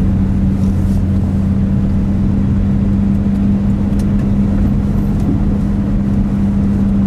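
Pickup truck driving at a slow steady speed, heard from inside the cab: a steady low engine and road drone with a constant hum.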